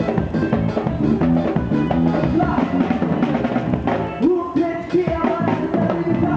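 Gospel band playing an upbeat song with drum kit and guitar, and a voice singing a short phrase about four seconds in.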